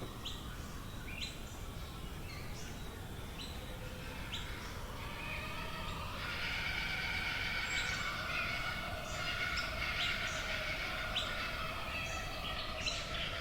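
Australian bush birds calling: a string of short, sharp chirps, joined about halfway through by a denser chorus of several birds, over a steady low background rumble.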